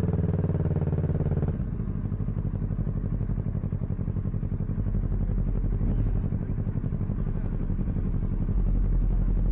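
Kawasaki Ninja 650 parallel-twin motorcycle engine running on the road, with wind rumble. About a second and a half in, the steady engine note gives way to a quieter, pulsing one.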